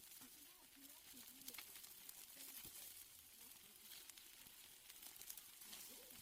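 Faint sizzling of steaks on a grill, a steady hiss with scattered small crackles and pops.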